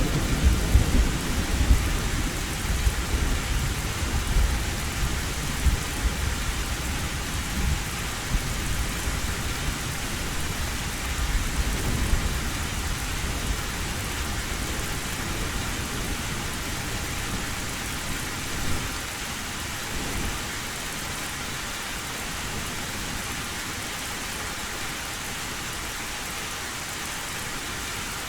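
Heavy rain falling steadily on a metal roof, with a low thunder rumble that fades away over the first half.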